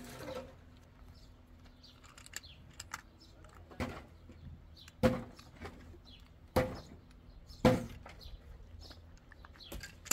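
Four loud, sharp knocks about a second or so apart in the second half, each with a brief ring, with faint tapping and clicks in between.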